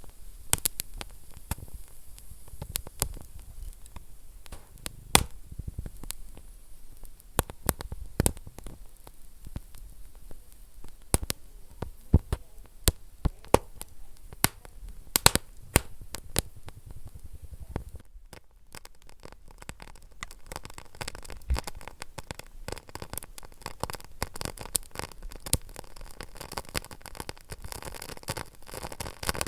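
Wood fire burning in a fireplace, crackling with irregular sharp pops over a low steady hiss. About 18 seconds in, the crackle becomes denser and finer.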